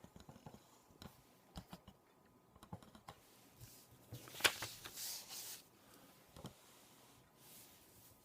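A sheet of paper being handled on a tabletop, faint, with scattered small clicks and taps and one louder crisp rustle about four and a half seconds in.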